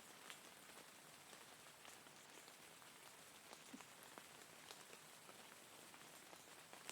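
Steady, quiet rain: an even hiss with scattered individual drops ticking against a surface.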